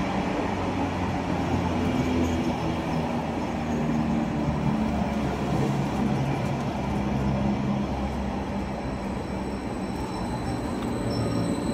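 Greater Anglia passenger train running past close along the platform: a steady rumble of wheels and running gear with a low hum. A thin high-pitched squeal comes in near the end.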